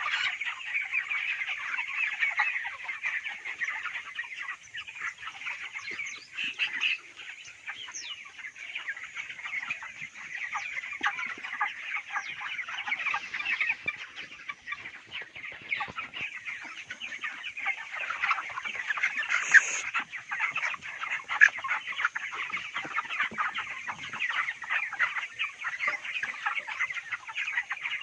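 A large flock of 26-day-old broiler chickens calling continuously, a dense chatter of many overlapping short, high calls.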